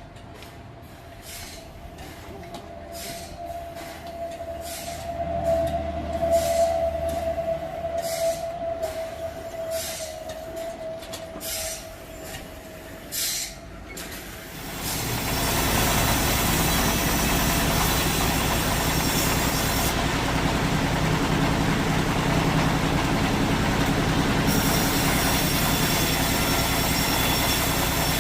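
Sawmill machinery: for about the first half, a regular clicking about twice a second under a steady squeal, then a loud, steady sawing noise takes over for the rest.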